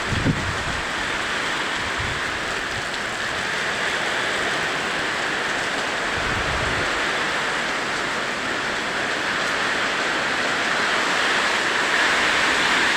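Rain pouring steadily in a summer rainstorm, growing a little louder near the end. Brief gusts of wind buffet the microphone at the start and about six and a half seconds in.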